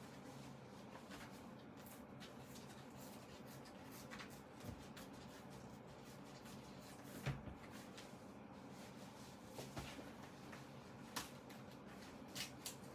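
Faint handling of a faux-leather bible cover being taken apart: scattered light clicks and rustles, the sharpest about seven seconds in, over a steady low hum.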